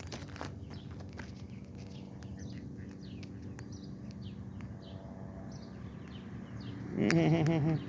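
Ducklings peeping in a run of short, falling chirps over a steady low hum. Near the end a much louder, wavering, pitched burst lasts under a second.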